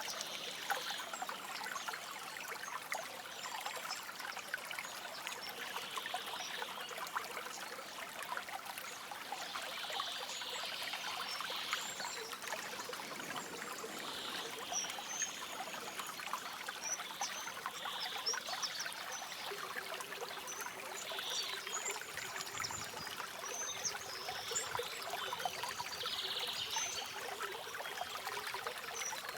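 A shallow stream babbling and trickling steadily, with soft bird chirps breaking in every few seconds.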